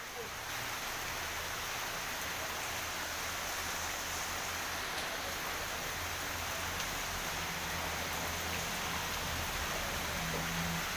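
Truck engine running with a low steady hum under a steady, even hiss.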